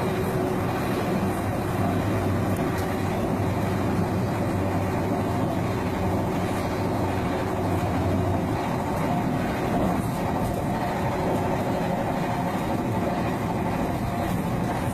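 Steady rumble and hum inside a Taiwan Railways Puyuma Express carriage: the train's running and equipment noise, with no break.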